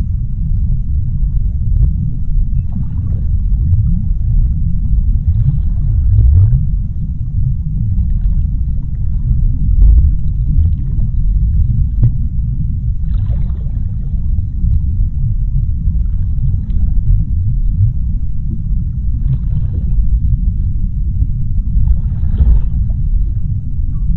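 Underwater sea ambience: a deep, steady low rumble, with a faint, brief higher wash about five times.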